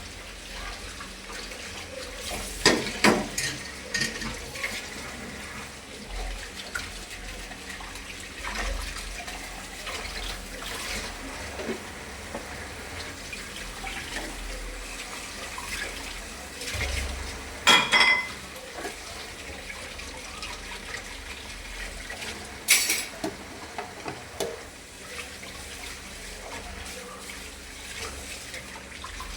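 Dishes being washed by hand under a running tap: a steady rush of water with bowls and utensils clinking and clattering. The loudest clatters come about 3, 18 and 23 seconds in.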